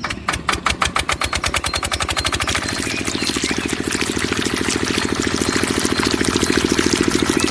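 Small single-cylinder diesel engine of a water pump running with an even chugging beat. About two and a half seconds in it picks up speed and settles into a faster, steady run.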